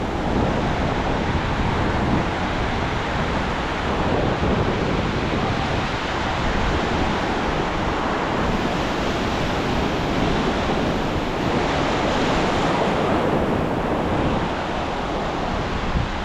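Ocean surf breaking and washing up the beach, a steady roar of waves, with wind buffeting the microphone.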